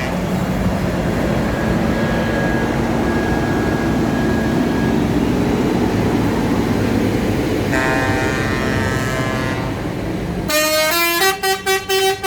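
Tractor engines running steadily as a horn sounds for about two seconds. Near the end a musical horn plays a short tune of quick changing notes.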